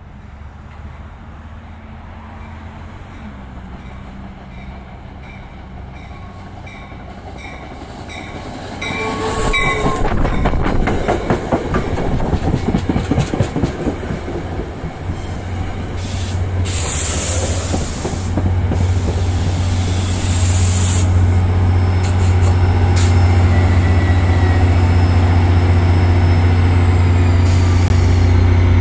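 NJ Transit passenger train approaching and passing close by. About nine seconds in, its wheels clatter rhythmically over the rail joints and grow loud. This settles into a loud steady low hum, with a faint high whine falling slowly in pitch near the end.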